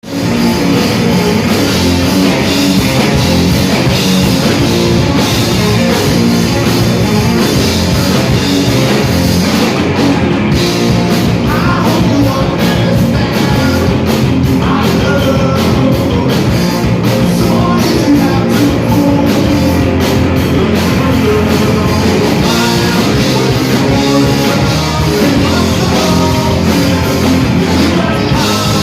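A rock band playing loud, with guitars and a drum kit keeping a steady beat.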